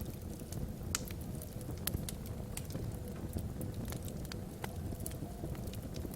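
Wood logs burning in a fireplace: a steady low rumble of flame with frequent sharp crackles and pops scattered irregularly through it.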